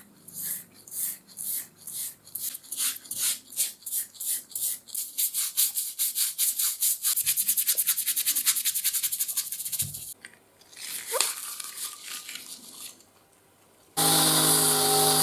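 Back-and-forth scraping strokes on steel, steady and even, speeding up from about two to about six a second. About a second before the end, a power tool's motor starts and runs steadily.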